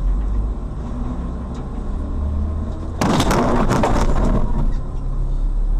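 Vehicle running with a steady low rumble, then about three seconds in a sudden loud, noisy burst full of clattering that lasts about a second and a half: the sound of a road crash.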